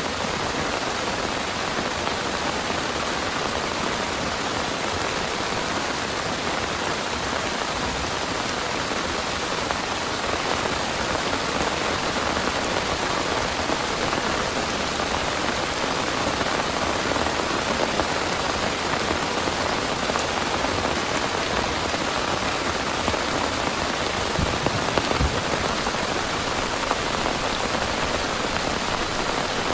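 Heavy rain pouring steadily and densely, with a few louder thuds a little over halfway through.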